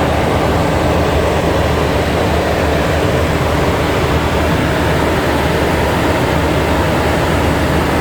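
Steady rush of airflow and engine noise inside the flight deck of a Boeing 737NG in cruise, with a low hum underneath.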